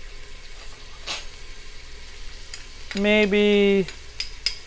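Chicken pieces sizzling in sesame oil in a stainless Instant Pot inner pot on sauté, with a single click about a second in. About three seconds in, a man's voice holds a long level 'um' for nearly a second. Near the end, a few light clinks come from a metal spoon scraping minced ginger out of a small glass bowl.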